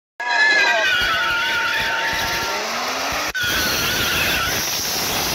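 Engines of a Toyota Mark X sedan and a BMW SUV revving at a drag-race start line, with a wavering engine note and a rising rev shortly before an abrupt break about three seconds in.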